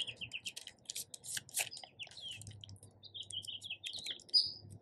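Small birds chirping in short quick bursts of rising and falling chirps, over light crinkly clicks of tissue paper being handled.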